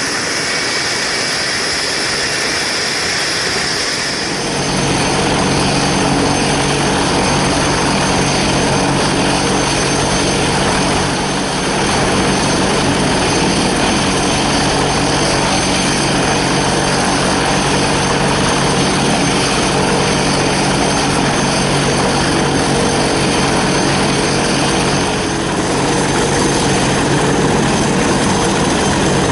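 Turboprop aircraft engines and propellers running at high power, a steady propeller drone with a constant low hum. A high turbine whine is heard for the first few seconds, then the sound swells and fills out about four seconds in.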